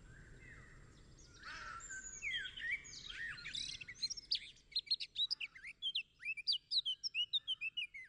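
Songbirds chirping: a run of quick, sharp chirps that gets busier and faster about halfway through, then cuts off abruptly.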